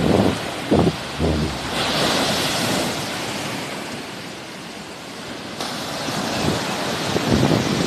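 Sea waves washing onto the shore: the hiss of a breaking wave swells about two seconds in, then fades. Wind rumbles on the microphone at the start and again near the end.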